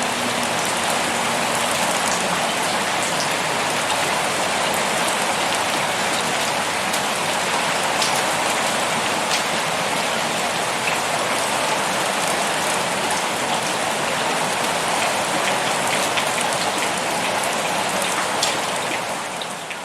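Pouring rain: a steady, dense hiss dotted with sharper individual drop taps, starting to fade out near the end.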